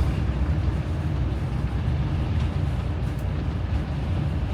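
Motorhome driving along, a steady low rumble of engine and road noise heard from inside the cab.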